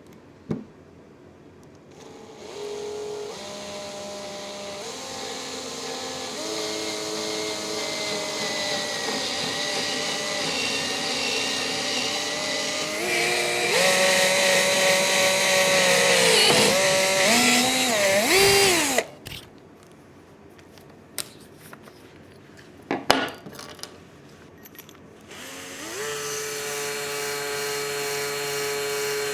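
Electric drill boring through a wooden baseboard. Its motor whine steps up in pitch and grows louder, wavers and dips as it works through the wood, then stops about two-thirds of the way in. After a click it spins up again and runs steadily near the end.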